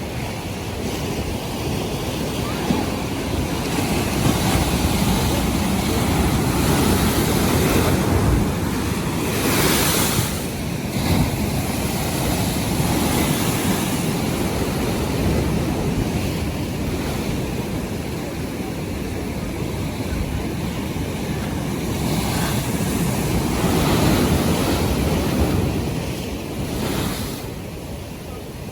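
North Sea waves washing in, the noise swelling and easing every few seconds, with wind buffeting the microphone. One stronger surge comes about ten seconds in.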